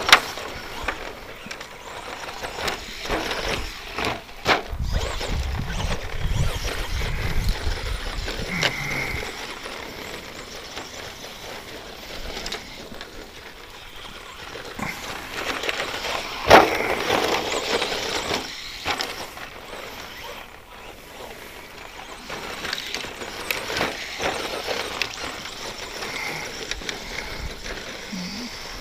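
ECX Circuit 2WD stadium truck with its stock brushed electric motor running laps on a rough dirt track: motor whine and tyre noise swelling and fading as it speeds up and slows, with sharp knocks as it hits bumps and lands, the loudest about sixteen seconds in.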